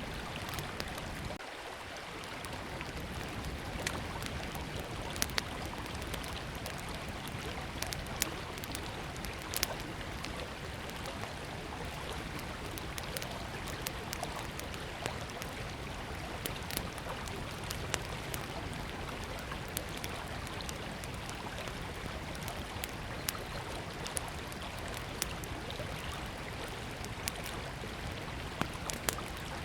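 Small wood campfire crackling with scattered sharp pops over the steady rush of a river.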